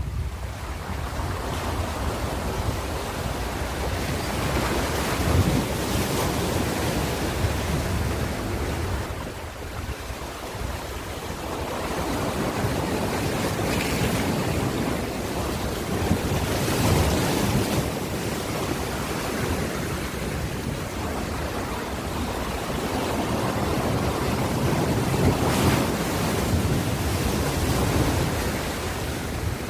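Ocean surf: waves breaking and washing in, the rush swelling and easing every several seconds, with a lull about ten seconds in.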